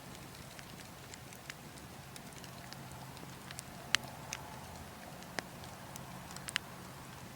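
Burning logs crackling, with scattered sharp pops, the loudest about four seconds in, over a steady low rush of wind.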